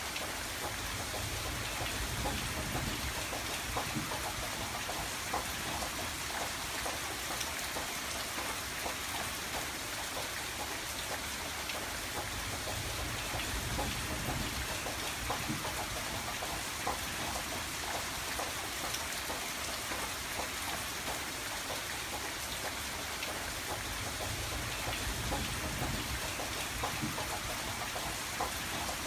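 Steady rain pattering on a window pane, a dense hiss scattered with small drop ticks. A low rumble swells and fades three times underneath.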